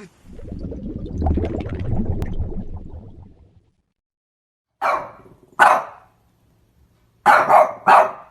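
An animal's low, rough growl lasting about three seconds, then four short sharp calls in two pairs.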